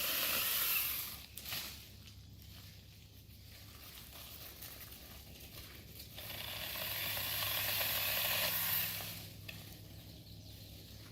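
Cordless mini chainsaw on a pole saw cutting through branches, its chain rasping through wood in two cuts: one ending about a second in, another from about six to nine seconds, with the electric motor humming low in between.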